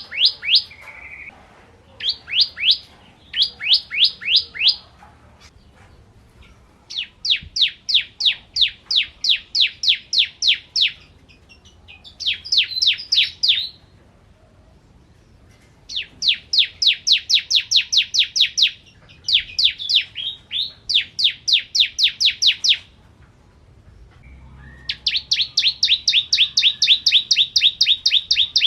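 Bar-winged prinia (ciblek kristal) singing in fast trills of sharp, downward-sliding notes, about four a second. The phrases last a few seconds and are separated by short pauses. Near the end a longer phrase begins, steadier in pitch.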